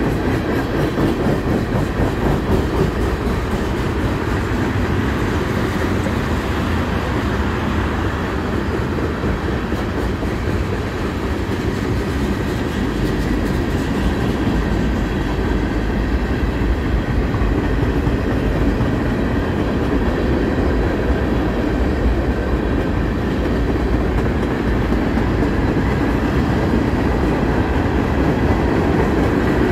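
Freight train cars rolling past: a steady, loud rumble of steel wheels on the rails with a rapid, continuous clatter.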